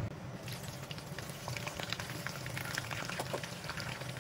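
Whole shell-on prawns frying in hot oil in a wok: a sizzle of irregular crackling pops that starts about half a second in.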